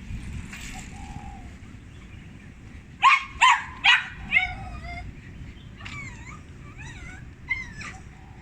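A dog giving four loud, high yelping barks in quick succession about three seconds in, then a few fainter, bending yips near the end. Wind rumbles on the microphone throughout.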